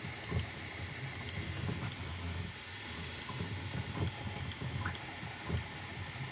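Bambu Lab A1 Mini 3D printer running a print: a steady low motor hum from its stepper motors, broken by many quick irregular knocks and ticks as the print head darts back and forth at high speed.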